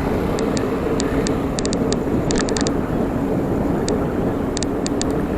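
Steady wind and road noise of a ride outdoors, with a faint steady hum of traffic and scattered light ticks.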